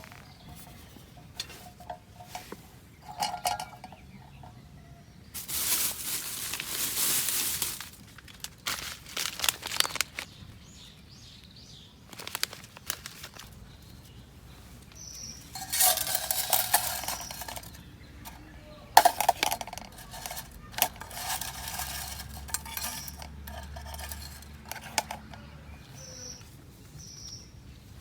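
Camp cookware and utensils being handled: scattered light metallic clinks and knocks, with several longer stretches of rustling lasting a second or two.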